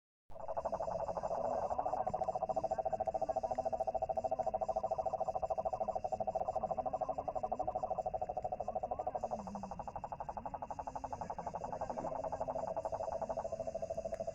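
Night chorus of frogs and insects: a dense, rapidly pulsing trill in the middle range with a steady high-pitched insect drone above it, running continuously.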